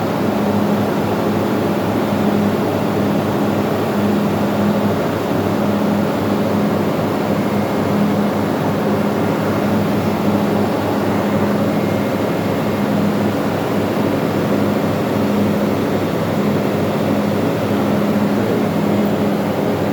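Ship's engine-room machinery running steadily: a loud, even drone with a low hum that slowly swells and fades.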